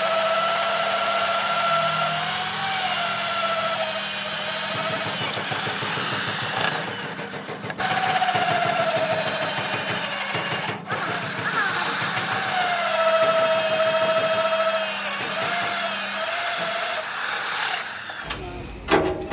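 Electric power tool motor, of the drill kind, running with a high whine whose pitch wavers and dips as it bites under load. It cuts out briefly twice, about 8 and 11 seconds in, and stops shortly before the end.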